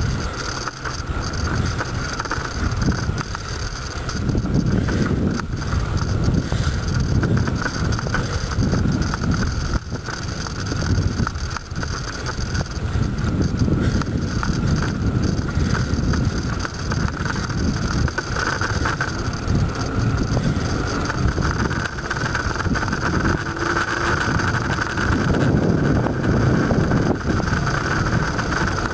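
Bicycle being ridden on a road: a low rumble of wind on the microphone and road noise that swells and eases every second or two, over a steady high hum.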